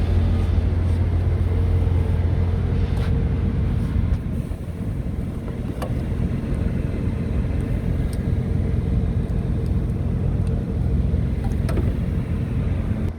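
Diesel engine of a Scania R tractor unit running: a steady low hum for the first few seconds, then a rougher, less even rumble from about four seconds in, with a few light ticks.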